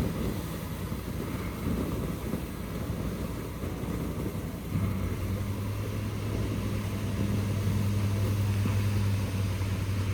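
Heavy truck's diesel engine running, a low rumble that settles about halfway through into a steady, even-pitched drone.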